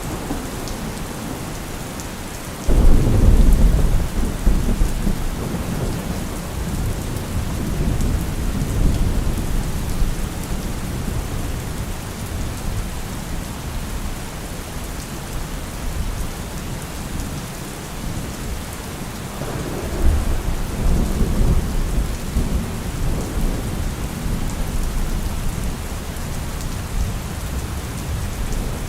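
Steady heavy rain pouring down, with two deep low rumbles rising suddenly out of it, one a few seconds in and one about two-thirds of the way through, each rolling on and fading over several seconds.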